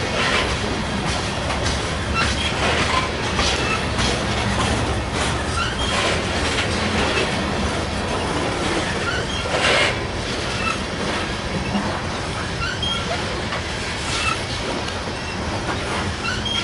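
Union Pacific coal train's open-top coal cars rolling past: a steady rumble of steel wheels on rail, with scattered clicks as wheel sets cross rail joints and short high-pitched squeals from the wheels.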